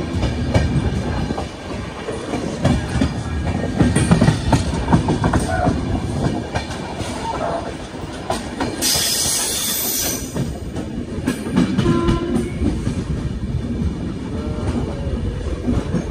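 Rajdhani Express passenger coach running at speed, heard from its open doorway: wheels clicking over rail joints under a steady rush of rolling and wind noise. A burst of hiss comes a little past the middle, and a short horn sounds about twelve seconds in.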